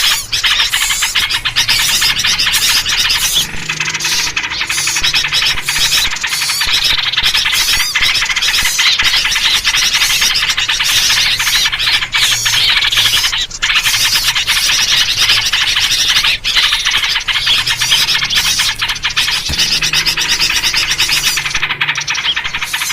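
Loud, dense chorus of small birds chattering and calling without pause, a noisy agitated bird chorus built around yellow-vented bulbul (trucuk) calls.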